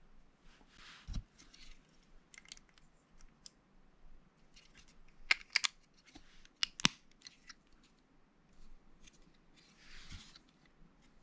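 Lego plastic bricks being handled and pressed together: small sharp plastic clicks, loudest in a cluster about five to seven seconds in, between soft rustles of pieces being moved.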